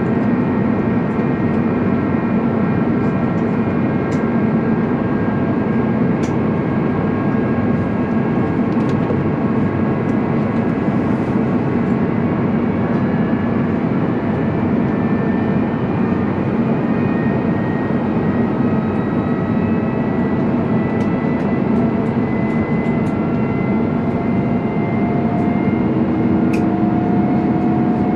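Airbus A350-900's Rolls-Royce Trent XWB engines heard from inside the cabin during the climb. They run loud and steady, and their whining tones slowly rise in pitch as thrust is brought back up.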